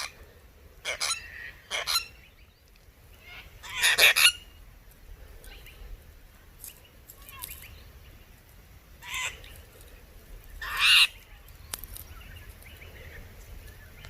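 A small flock of apostlebirds calling: five or so short calls spread out, the loudest about four seconds in and again near eleven seconds.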